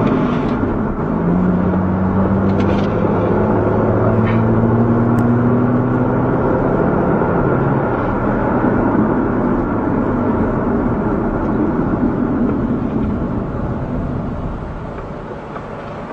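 A car on the move, with road noise and a steady engine tone that climbs slightly in pitch over the first few seconds. The sound eases down in level near the end.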